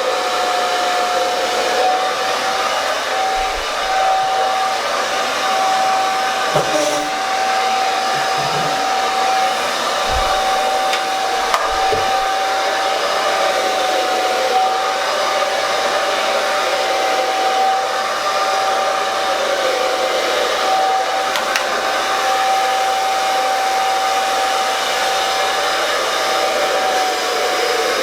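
Handheld hair dryer blowing steadily, with a constant whine over the rush of air, as it is worked through thick, wavy, shoulder-length hair. A few faint knocks come along the way.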